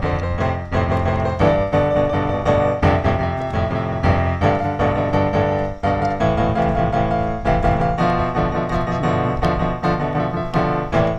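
Background piano music: a piano playing a steady flow of notes.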